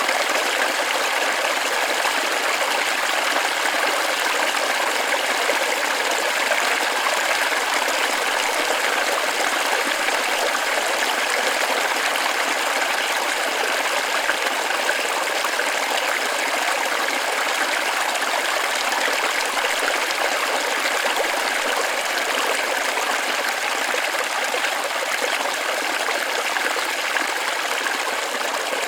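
Small waterfall splashing onto rocks in a continuous, even rush of water, steady throughout.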